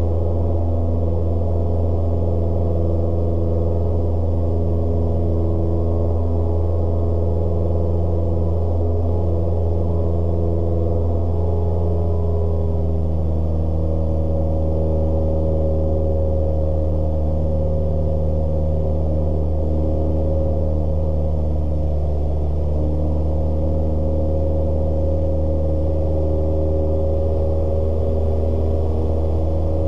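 Cessna 172S's four-cylinder Lycoming engine and propeller in cruise, a steady low drone heard through the cockpit intercom audio feed. Some of its upper tones shift slightly about halfway through.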